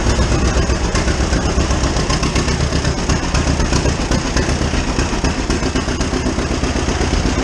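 A 1935 unstyled John Deere A's two-cylinder engine running steadily, with an even, pulsing exhaust beat.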